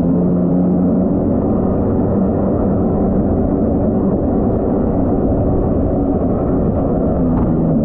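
Jet ski engine running at a steady pitch.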